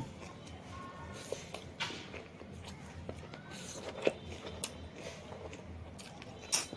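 A person eating close to the microphone: chewing and crunching food, with scattered sharp clicks and smacks, the loudest near the end.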